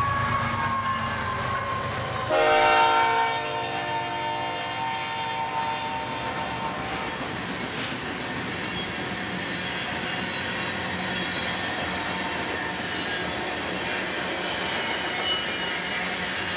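A BNSF freight train passing close by: the diesel locomotives' air horn blasts loudly about two seconds in, a chord of steady notes that fades out over the next few seconds. After it, the steady rolling and clatter of the freight cars on the rails.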